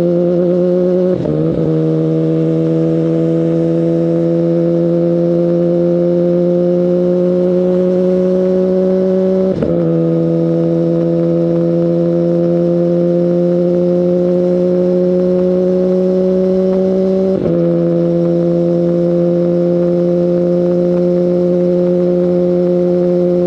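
2019 Kawasaki Ninja ZX-10RR's inline-four running through an Akrapovic Evolution full carbon exhaust under steady acceleration, its note climbing slowly. Three times it breaks briefly, about a second in, near the middle and about three-quarters through, with the pitch dropping as the rider shifts up a gear.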